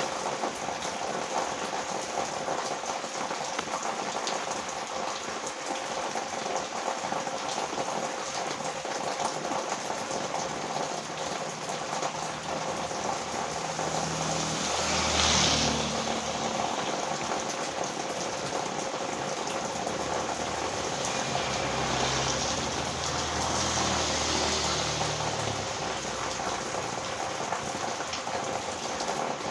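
Heavy rain falling steadily. About halfway through, a motor vehicle passes on the wet road with a swell of tyre hiss, and another engine passes a few seconds later.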